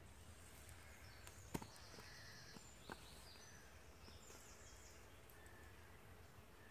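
Faint songbirds chirping in woodland, with two sharp clicks, a louder one about a second and a half in and a smaller one about three seconds in.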